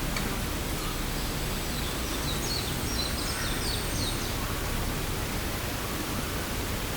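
Steady rushing of flowing water from a stream or waterfall. Partway through, a bird's faint high chirps come briefly over it.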